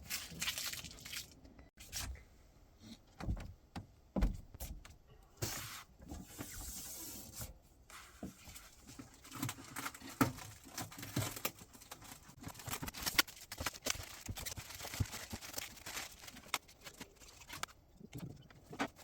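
Scattered clicks, knocks and rattles of parts being handled while a door handle is fitted to a new fridge-freezer, with a few seconds of rustling or tearing about six seconds in.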